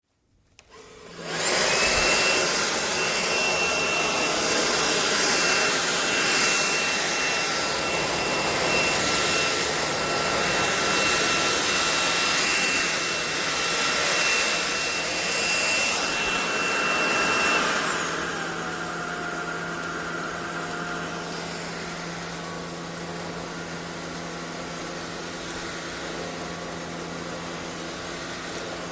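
SunSare X11 cordless stick vacuum switching on and running with a steady rush of air and a high whine. About 18 seconds in, the whine stops and it drops to a quieter, lower-pitched running sound.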